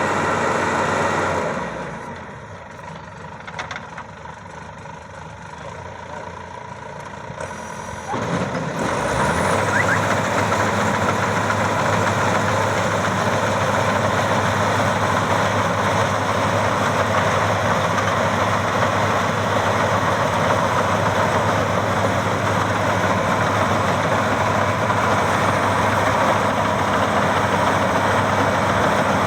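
Maxxi Bimo 102 X Top combine harvester's engine running steadily. The sound falls away about a second and a half in and comes back up loud about eight seconds in, then holds a steady hum.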